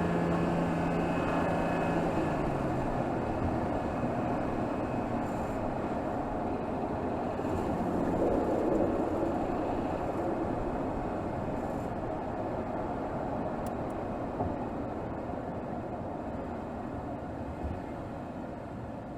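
Mercedes GLS 450's 3.0-litre turbocharged inline-six, heard from under the hood, its engine note dropping in pitch in a couple of steps over the first few seconds. Then a steady rush of road and wind noise takes over and slowly grows quieter.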